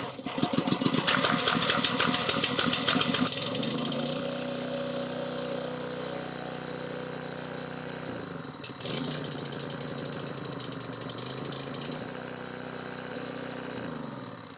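Small gas engine of a Ryobi pressure washer just after catching on the fourth pull of its recoil starter, running loud and rough for about four seconds before settling into a steady run.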